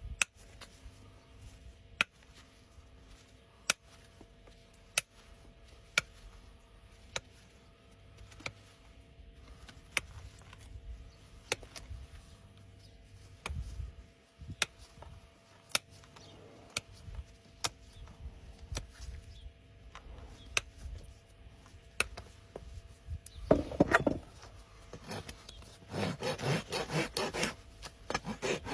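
Farrier's rasp filing a horse's hoof, with quick back-and-forth scraping strokes near the end and a loud scrape shortly before. Earlier, sharp clicks come about every second and a half.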